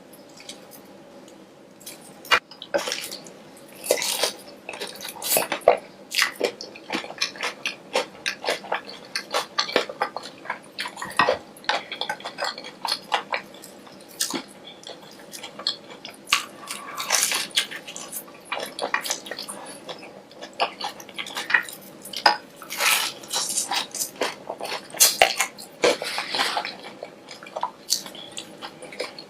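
Close-miked eating: irregular crunchy bites and chewing, with cutlery clicking against dishes.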